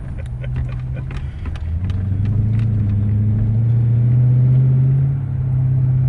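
2013 Dodge Charger R/T's Hemi V8 accelerating, its engine note rising in pitch for a few seconds, dipping briefly about five seconds in as it shifts, then running steadily. A few scattered clicks come near the start.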